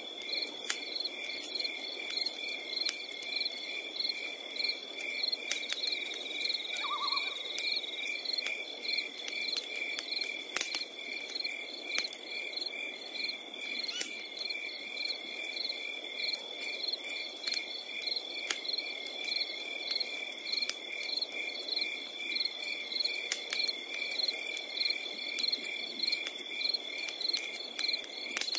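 Chorus of night crickets: a steady high trill with a regular pulsing chirp over it. A campfire crackles beneath it with scattered sharp pops.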